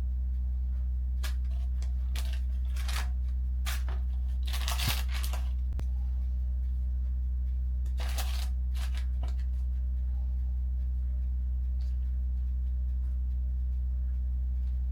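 Steady low hum, with short rustling and clicking handling noises on top, the longest rustles about four and a half and eight seconds in.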